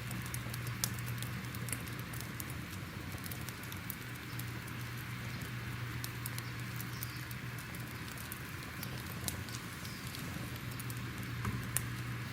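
Wood fire crackling, with small irregular pops and snaps over a steady low rumble and hiss.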